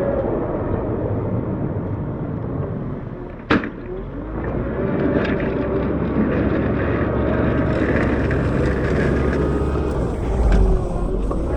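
Diesel engine of a CAT 908 compact wheel loader running and changing revs as it pushes snow. A sharp bang comes about three and a half seconds in, and a heavy low thump near the end.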